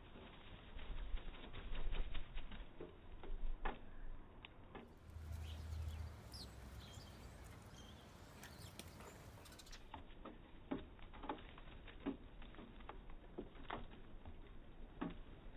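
Backyard birds' wings flapping, with scattered sharp taps and clicks, and a few short high chirps about five to seven seconds in.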